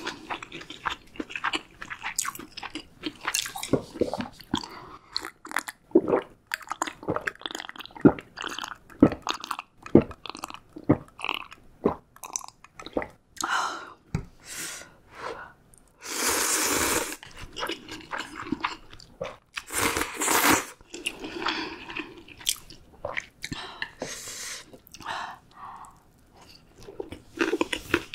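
Close-miked eating: a steady run of short wet chewing clicks and biting crunches of food, with two longer noisy sounds about a second each just past the middle.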